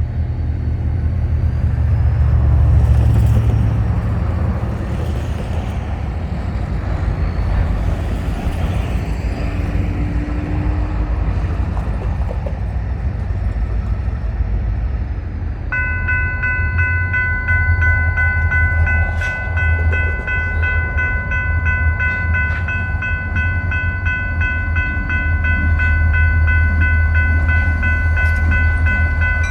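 EMD GP40-2 diesel-electric locomotives running with a deep, steady engine rumble. About halfway through, the locomotive's air horn sounds one long, steady multi-note chord that holds without a break.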